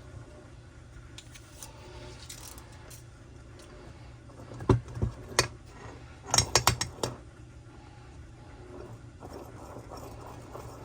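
A handful of sharp metallic clicks and knocks about halfway through as the freshly rebuilt saw's crankcase is handled and its crankshaft turned by hand in new bearings, which spin freely. A steady low hum runs underneath.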